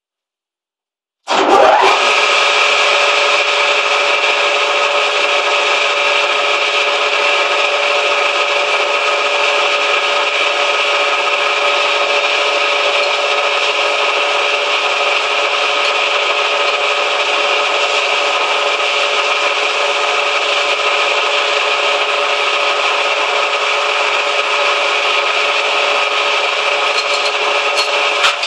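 Manual metal lathe turning a bushing: a steady, loud cutting scrape with several steady tones running through it, starting suddenly about a second in.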